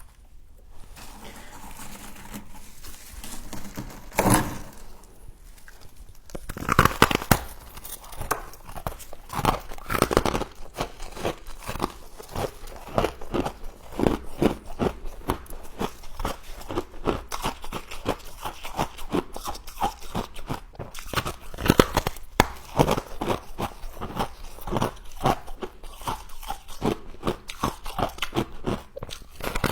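Close-up crunching of frost being bitten and chewed, in a dense run of short crisp crackles from about six seconds in, after a single sharp crunch a couple of seconds earlier.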